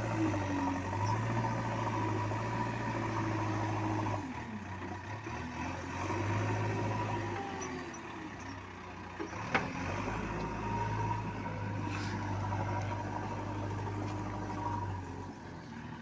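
Heavy vehicle engine running, its low hum swelling and easing every few seconds, with one sharp click near the middle.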